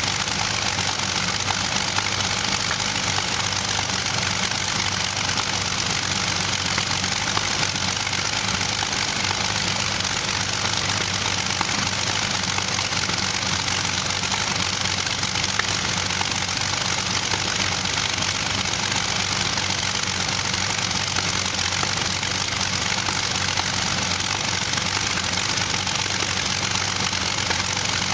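Allison V-1710 V12 aircraft engine, running on LPG, idling steadily with a dense, even exhaust noise and no change in speed.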